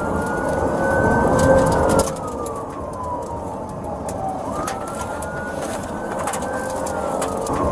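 Police siren wailing in slow rising and falling sweeps, over engine and road noise from the pursuing patrol car. The road noise drops sharply about two seconds in.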